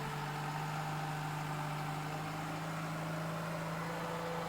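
A motor vehicle's engine running steadily: an even, low hum that holds one pitch throughout.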